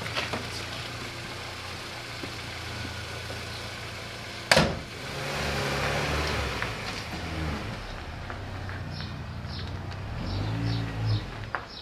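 MINI R56 1.6 HDi DV6 diesel engine idling steadily, with one sharp bang about four and a half seconds in. After the bang the engine note rises and falls.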